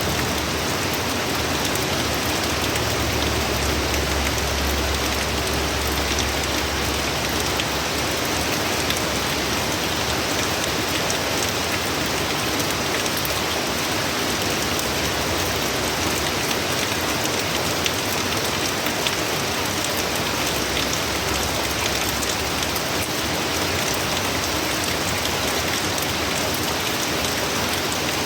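Heavy hurricane rain pouring down steadily, a dense even hiss of drops hitting surfaces with many small ticks of individual drops through it.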